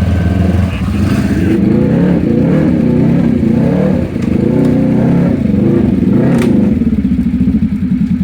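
Off-road vehicle engines running and revving unevenly at low speed, with the pitch rising and falling.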